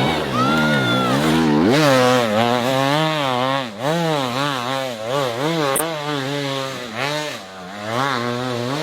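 Dirt bike engine revving hard and falling back again and again as it is ridden, its pitch rising and dropping about once a second.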